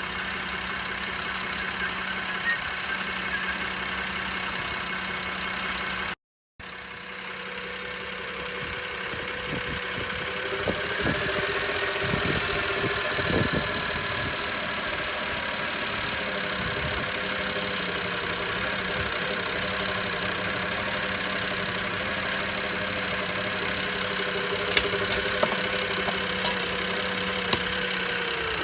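BMW N53B25 2.5-litre inline-six petrol engine idling steadily, freshly refilled with new engine oil. The sound cuts out completely for a moment about six seconds in, and a few light clicks come near the end.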